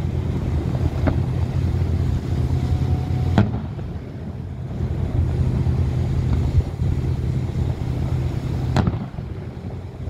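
Fireworks going off over a steady low rumble: a light crack about a second in, then two sharp bangs, one about three and a half seconds in and one near the end.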